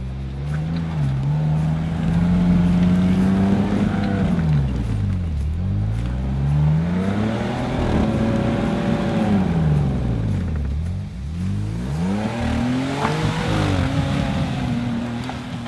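An off-road vehicle's engine revving hard in three long pulls. Its pitch climbs and holds high, then falls away sharply twice, about a third and two thirds of the way through, before building again.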